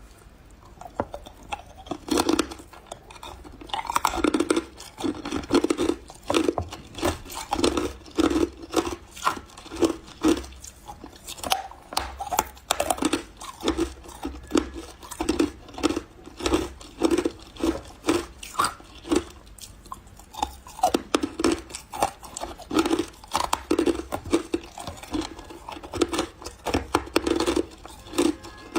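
Close-up chewing of refrozen powdery freezer ice: a steady run of soft crunches, about one to two a second, beginning about two seconds in.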